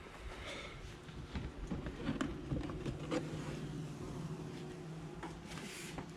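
Honey bees buzzing in a steady hum that grows firmer about two seconds in, with scattered clicks and knocks over it.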